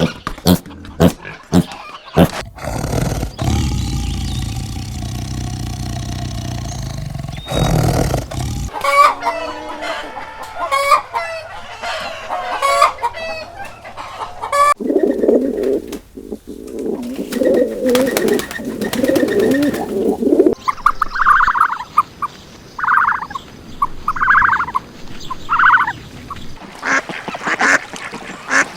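A run of farm animal calls changing every few seconds, chickens clucking among them. The calls are broken up by clicks near the start and a stretch of low, noisy rumble, and they end with four short, evenly spaced higher calls.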